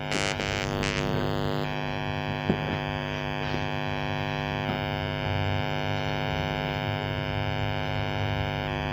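TDA7294 amplifier board putting out a steady mains hum through its speaker, with a few faint crackles and a shift in the buzz about 2 and 5 seconds in. The hum is the symptom of the board's fault, which the repairer traces to a loose leg on the 105J 100 V film capacitor at the line input.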